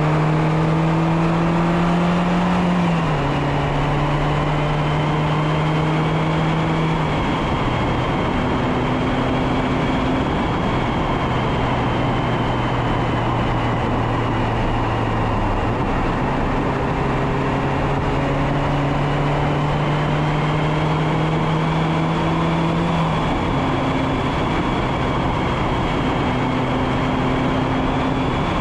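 Mazda MX-5 Miata ND2's four-cylinder engine pulling uphill under load. Its note climbs slowly, then steps down or up several times as the driver changes gear. Wind noise over the bumper-mounted microphone runs underneath.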